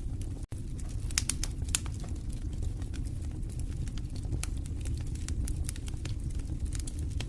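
Wood fire in a fireplace burning with a steady low rumble and frequent sharp crackles and pops, a few louder pops a little after a second in. The sound cuts out for an instant about half a second in.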